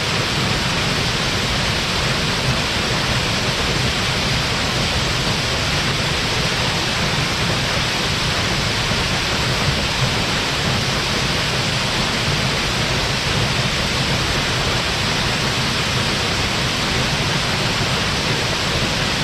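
Waterfall crashing steadily: loud, unbroken white water with a deep rumble underneath and a bright hiss on top.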